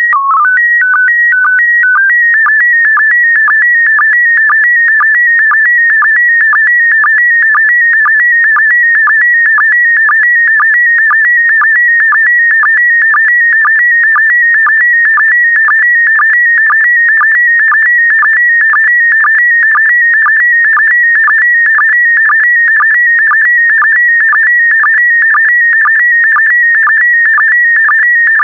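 Slow-scan television (SSTV) signal in PD120 mode: a loud electronic tone that jumps between a few fixed pitches for the first two seconds as the mode header is sent. It then settles into an unbroken warbling tone with a short dip about twice a second, one for each pair of image lines being scanned.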